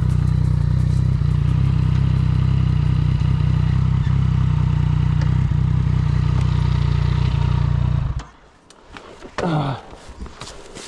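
Yamaha MT-09 Tracer's three-cylinder engine idling steadily, then cutting out abruptly about eight seconds in. Quieter scuffs and a short falling-pitch sound follow.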